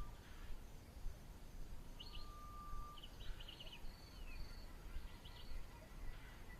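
Bush ambience of birds and insects. A bird gives one long, steady whistle about two seconds in, with several quick high chirps around it, while an insect repeats short high buzzes against a low background rumble.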